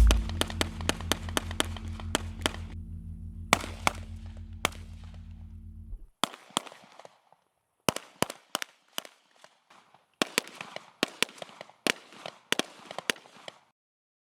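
Gunfire on a shooting range: strings of sharp shots in quick succession, several a second. Background music with a steady beat plays under the first six seconds, then stops, leaving only the shots in short bursts.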